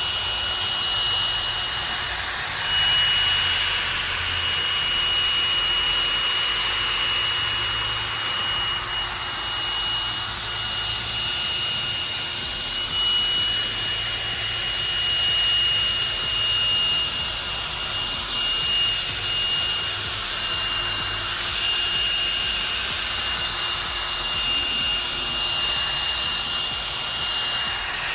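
Electric drill running steadily with a high motor whine, spinning a pad that works polishing compound into a plastic headlight lens.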